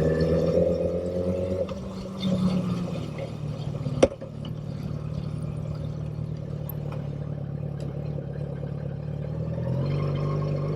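Motorcycle engine running under throttle, easing off about two seconds in and then holding a steady lower note. A single sharp click comes about four seconds in, and near the end the engine note rises and falls again.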